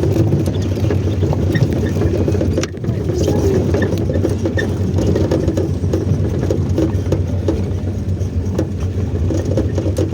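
Car running with a steady low engine and road hum.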